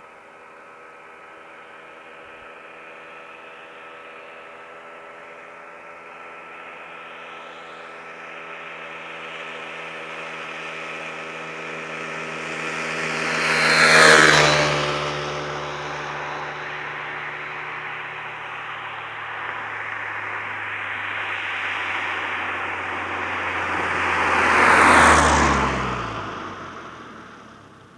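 Opel Astra's 2.0 turbo four-cylinder with a 2.5-inch sport exhaust and RM Motors RM9 rear silencer, driving past twice. It grows louder as it approaches and peaks about halfway with the pitch dropping as it goes by, then passes again near the end with a falling pitch and fades away.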